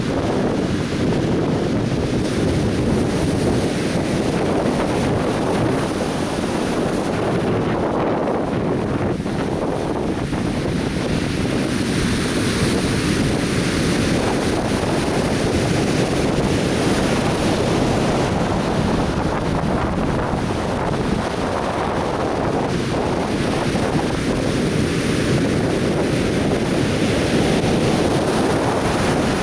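Atlantic Ocean surf breaking on a beach: a steady, continuous wash of waves.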